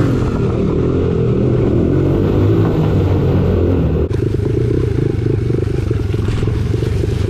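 Four-stroke dirt bike engine running while being ridden, with an abrupt break in the sound about four seconds in.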